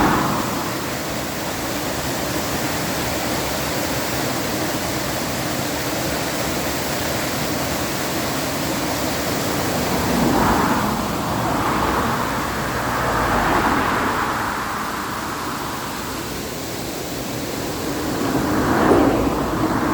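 Waterfall rushing, a steady roar of falling water that swells louder a few times.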